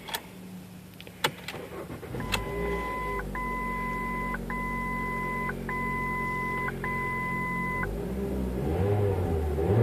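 2005 Ford Focus 2.0 Duratec engine running smoothly at idle, with no rattle, while its failing upper passenger-side motor mount is propped up by a jack. The engine hum picks up about two seconds in. A two-tone dashboard warning chime sounds five times, each about a second long.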